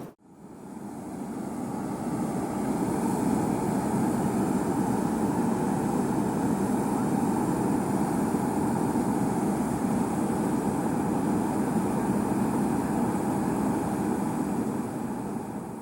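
Diesel engine of harvest machinery running steadily at constant speed, fading in at the start and easing down near the end.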